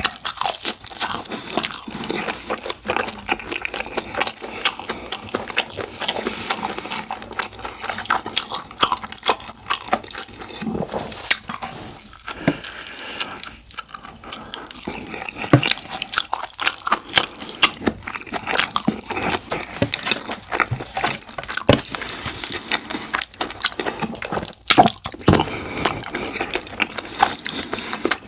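A person eating black bean sauce rice and curry rice with kimchi, heard close up: steady wet chewing and mouth smacking with crunchy bites.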